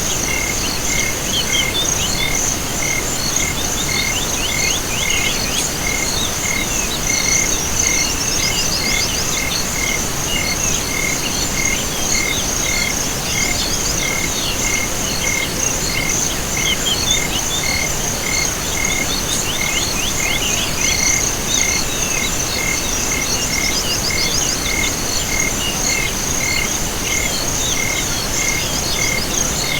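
Night chorus of crickets and frogs: a steady high trill, a regular chirp pulsing about two to three times a second, and scattered rapid chirping calls over a constant soft hiss.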